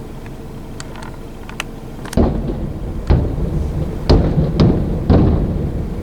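Aerial firework shells bursting: five heavy booms with a rumbling tail, the first about two seconds in and the rest about half a second to a second apart, after a few faint sharp cracks.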